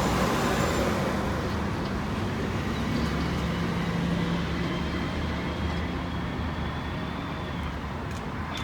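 Garbage truck's diesel engine running steadily, gradually getting quieter.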